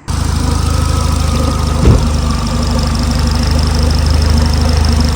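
Renault Megane R26 turbocharged 2.0-litre four-cylinder engine, swapped into a Clio, idling steadily. It is being run with the heater on full to bleed air from the freshly filled cooling system. A single loud thud comes about two seconds in.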